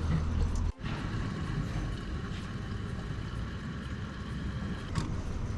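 Fuel dispenser at a petrol station running steadily with a faint whine over a low hum as a motorcycle is refuelled. The sound drops out briefly under a second in.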